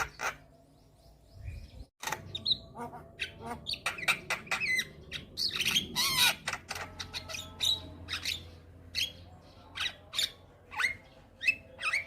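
Javan myna (jalak kebo) singing a fast, varied string of chirps, whistled notes and harsh squawks, after a brief break about two seconds in.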